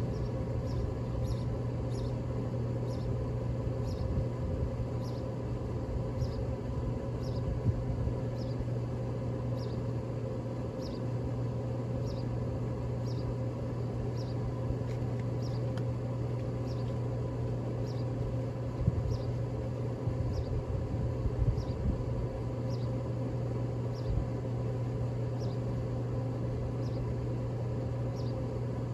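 Traeger Scout pellet grill running at start-up as its pellets ignite, its fan giving a steady hum. A faint high chirp repeats about once a second.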